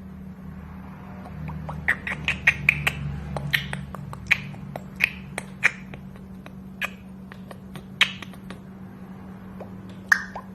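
Small pet parrot chirping: many short, sharp, high chirps at irregular intervals, thickest a few seconds in, over a steady low hum.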